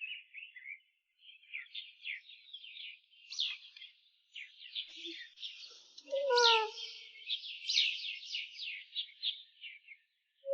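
Small birds chirping, a quick series of short high chirps that keeps going, with a louder, lower falling call about six seconds in.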